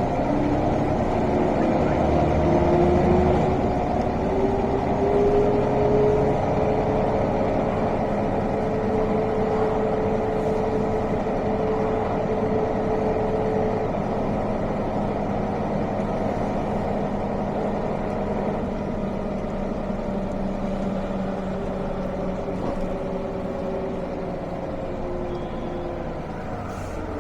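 Mercedes-Benz O405 city bus's six-cylinder diesel engine, heard from inside the bus. The engine pitch rises over the first few seconds as the bus accelerates, holds steady while it cruises, then slowly falls as the bus eases off and slows.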